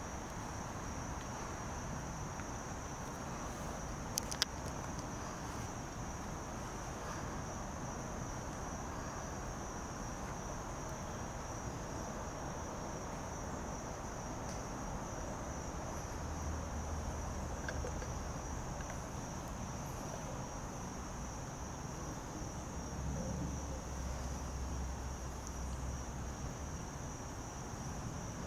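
Steady insect chorus: a constant high, shrill drone. A couple of faint clicks come about four seconds in, and a faint low rumble swells twice in the second half.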